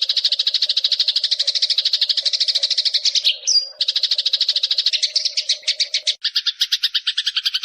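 Eurasian tree sparrow giving a long, rapid chattering call, a dozen or so sharp notes a second, briefly broken about three and a half seconds in by a short rising note before the chatter resumes.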